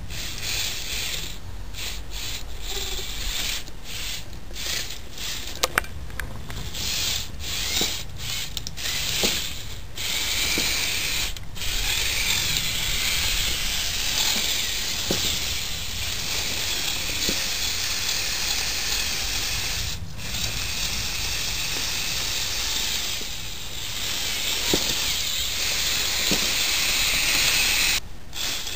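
Electric motors and plastic gear train of a Lego Technic Mercedes Unimog U1600 trial truck model running steadily, with scattered small clicks from the gearing.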